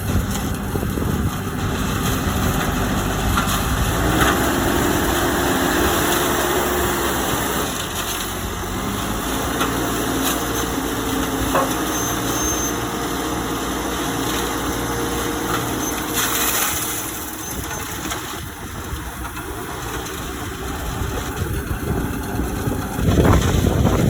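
Diesel engine of a 3.5 cubic metre self-loading concrete mixer running steadily as its bucket loads sand, stones and cement, with a higher held note twice for a few seconds, a few knocks, and the sound growing louder near the end.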